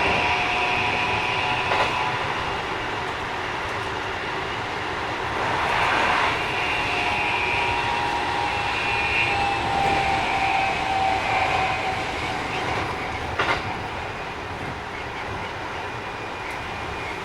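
Keikyu 1000 series electric train running, its Mitsubishi IGBT inverter drive and traction motors whining in steady tones over wheel and track rumble. This is a set the recordist finds a little noisier than others. A motor tone slides down in pitch past the middle, and there are a few clacks from the rail joints.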